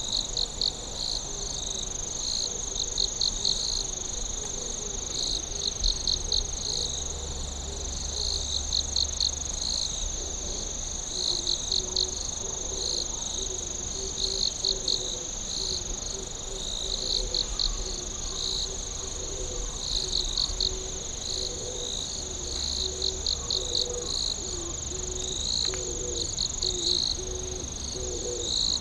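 Night insect chorus: a steady high-pitched trill runs continuously while crickets chirp over it in repeated short pulsed bursts. A fainter, lower wavering call repeats in the background from about the middle on.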